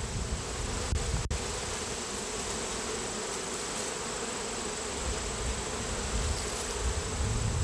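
Honeybees buzzing steadily around an open hive, a dense, even hum of many bees.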